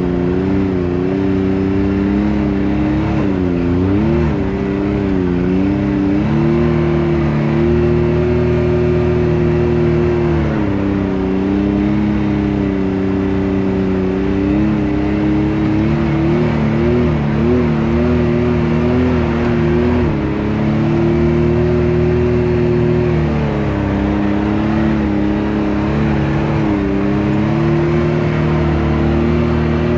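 Can-Am Maverick X3's turbocharged three-cylinder engine running at low revs while crawling over a rocky trail section, its pitch wavering up and down with small throttle changes.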